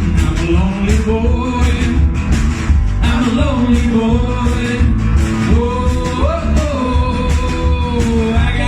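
Rock band playing: an instrumental passage with a melodic lead line over a drum box keeping a steady beat.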